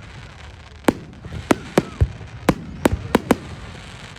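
Fireworks bursting: after a quieter first second, a quick irregular run of about eight sharp bangs.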